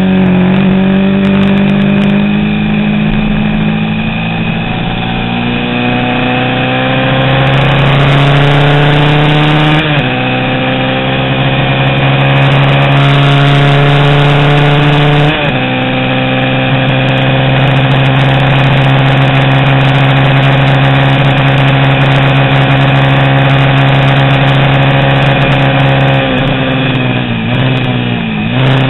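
A 350 cc vintage road-racing motorcycle engine runs hard, its pitch climbing slowly as it pulls. The pitch drops sharply about ten and fifteen seconds in, as at gear changes up, then climbs again. Near the end the pitch dips and wobbles, as when slowing and shifting down.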